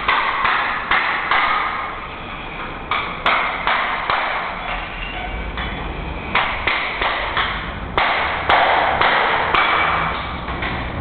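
Irregular sharp knocks and clanks from demolition work, coming in short clusters with a brief echoing ring after each.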